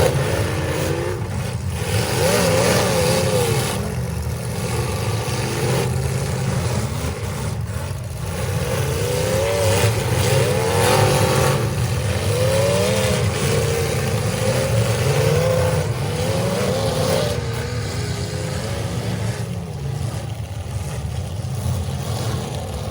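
Several demolition derby cars' engines revving and running together, their pitch climbing and falling again and again over a steady low rumble.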